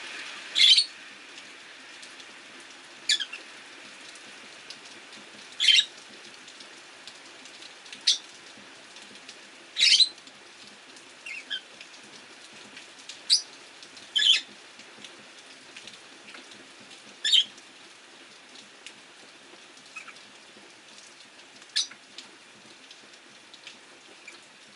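Rosy-faced lovebirds giving short, sharp chirps, one every two or three seconds, about ten in all, over a steady hiss of rain.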